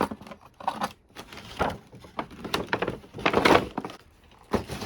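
Christmas ornaments and storage boxes being handled and packed: irregular knocks and clicks, with a louder rustle of packing wrap about three and a half seconds in.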